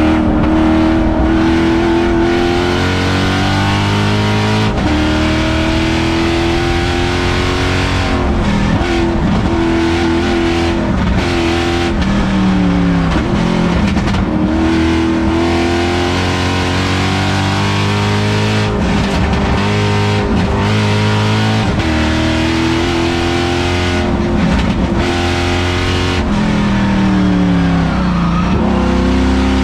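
LS3 V8 engine of a Miata race car, heard from inside the stripped, caged cabin, pulling hard on track. Its pitch climbs steadily through each gear and drops sharply at the upshifts, and several times falls away as the car slows for corners before rising again on the exit.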